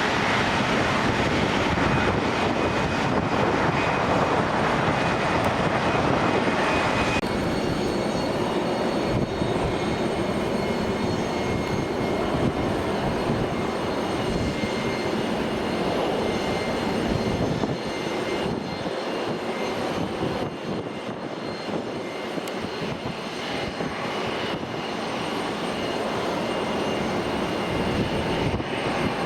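Airplane engine noise: a steady wash with a faint whine. The sound changes abruptly about seven seconds in, then continues thinner with several higher steady whines.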